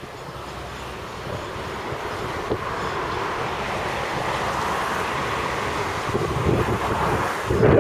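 Intermodal container wagons of a freight train rolling past, a steady rumble of wheels on rail that grows gradually louder. Near the end a gust of wind buffets the microphone.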